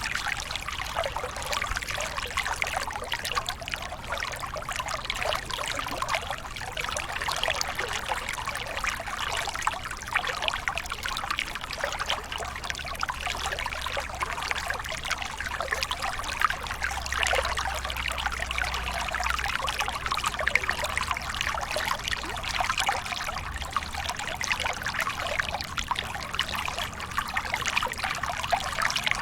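Waterfall: water pouring and trickling in a steady, continuous splashing.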